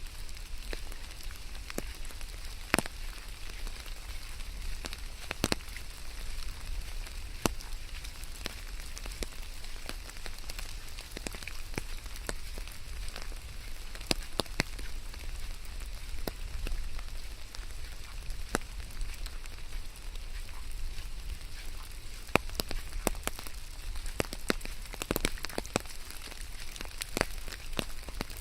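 Steady rain with many irregular, sharp drops hitting a surface close by, over a low steady rumble.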